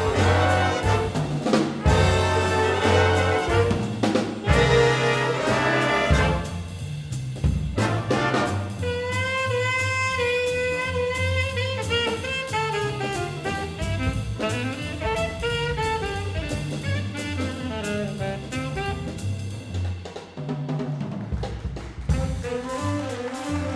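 Big band jazz ensemble playing a swing chart with brass, saxophones and drum kit. Loud full-band brass hits for the first several seconds, then from about eight seconds a quieter stretch where a single melodic line carries over the rhythm section, and the band builds again near the end.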